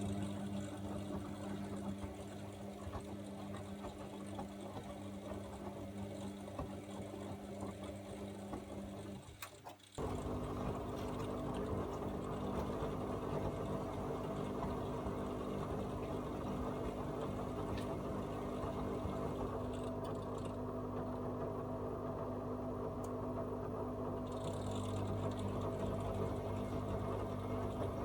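AEG Öko-Lavamat 74780 front-loading washing machine working early in its 60 °C wash: water rushes in over a steady hum. About a third of the way in that stops with a click, and the drum motor then runs steadily and louder, turning the drum.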